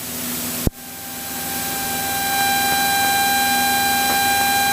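Cessna 172SP cockpit noise at takeoff power in the climb-out, heard over the intercom: a steady hiss from the Lycoming IO-360 engine, propeller and slipstream, carrying a steady whine. After a click about a second in, the whine comes in and the sound grows louder over the next two seconds.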